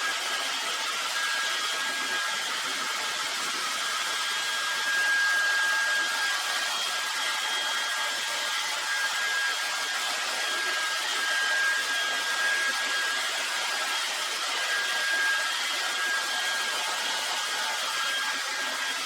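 A handheld hot-air blower running steadily: rushing air with a thin, high, constant whine. It is warming the stickers on the bike's forks so they can be peeled off.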